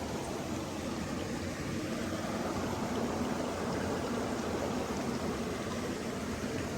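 Water flowing, a steady rushing noise with no breaks.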